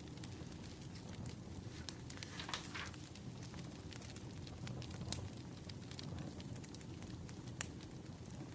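Burning firewood crackling: irregular sharp pops and snaps over a low steady rumble, with one louder pop near the end.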